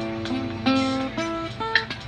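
Guitar music: a run of plucked notes, several a second.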